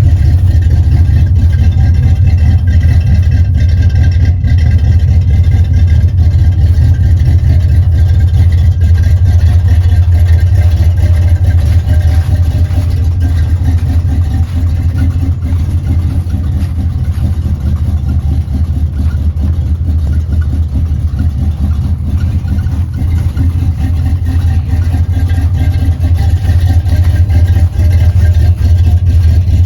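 A 1978 Chevrolet El Camino's cammed V8 idling steadily just after a 16-degree cold start with no choke, its loudness dipping a little partway through.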